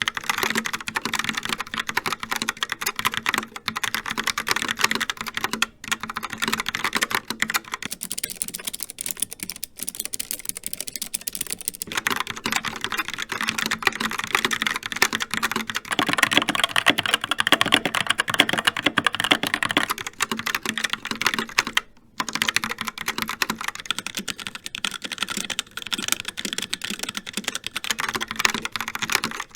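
Continuous fast typing on a keyboard, a dense clatter of keystrokes whose tone changes every few seconds, with a few short pauses.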